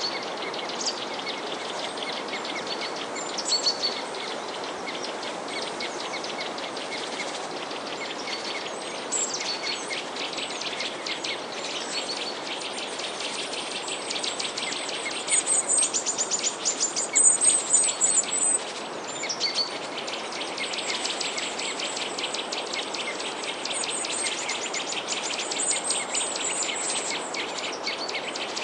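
Many small songbirds chirping and twittering together over a steady background hiss, with a louder run of rapid, high trills about halfway through.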